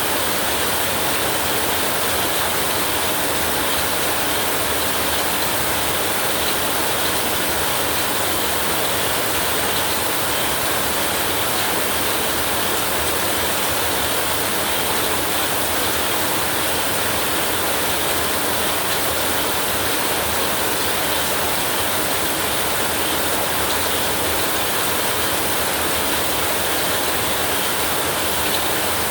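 Heavy rain falling steadily, a dense even hiss with no breaks or rises.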